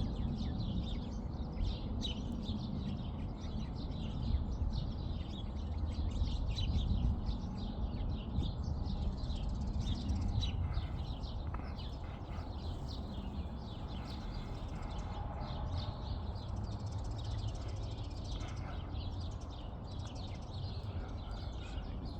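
Small birds chirping repeatedly over the low rumble of a jet airliner that has passed overhead, the rumble slowly fading.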